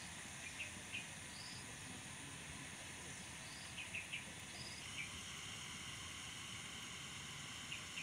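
Outdoor ambience of insects droning steadily, with a bird giving short high chirps every second or so and a few brief sharper chirps.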